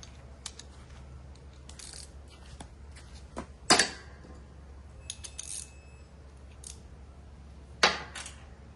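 Metal tools and parts clinking during mower deck repair work, with two sharp metallic knocks about four seconds apart and lighter clicks between them.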